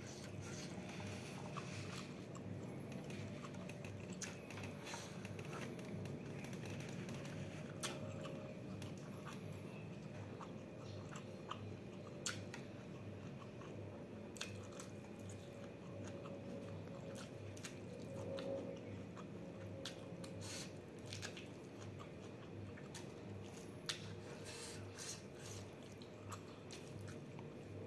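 Close-miked chewing of a mouthful of rice, prawns and vegetables, with scattered sharp crunches through the chewing.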